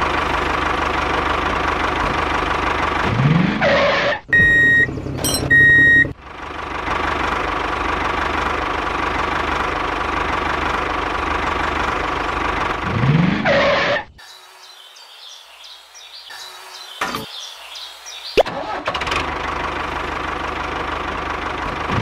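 Tractor engine running steadily, revving up in a short rising sweep about three seconds in and again about thirteen seconds in. Two short high beeps sound about five seconds in. The engine drops away for about four seconds past the middle, then comes back.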